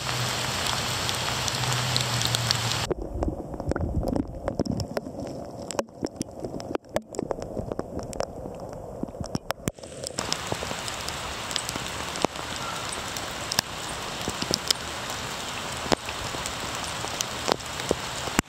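Steady rainfall hissing, with many sharp taps of single raindrops landing close by. For several seconds near the middle the hiss thins out and mostly the separate drop taps are heard, before the steady rain returns.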